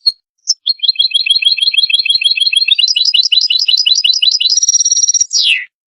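European goldfinch singing: a few short calls, then a fast run of repeated twittering notes at about seven a second. The song climbs higher, ends in a buzzy trill and slurs downward just before it stops.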